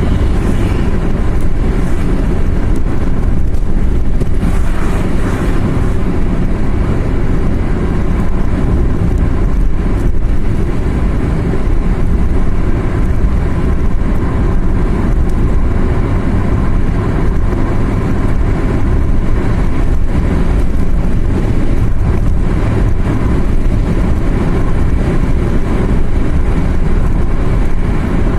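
Car driving along a road: a steady, even mix of engine and road noise, mostly low-pitched, with no change in speed or gear.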